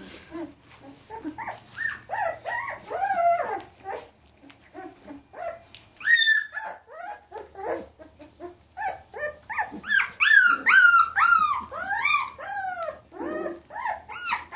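Young Labradoodle puppies, their eyes just open, whining and squealing over one another in many short, high-pitched calls that rise and fall. They are hungry pups looking for milk.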